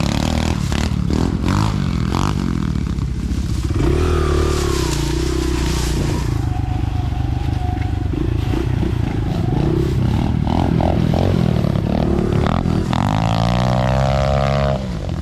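Dirt bike engine running under throttle on a trail ride, its pitch rising and falling as it is revved. There is a long climbing rev near the end.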